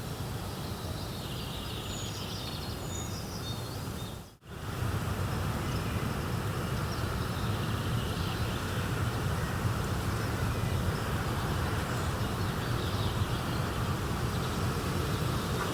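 Steady rushing nature ambience with a low rumble, with birds chirping for the first few seconds. The sound fades out briefly about four seconds in, then returns slightly fuller.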